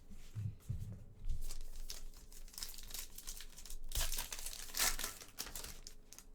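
Trading-card pack wrapper crinkling and tearing as it is opened, in irregular crackles with the loudest bursts about four and five seconds in.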